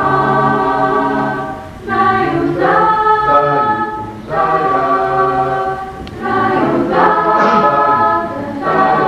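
Choir singing held chords in phrases of about two seconds each, with short breaths between them.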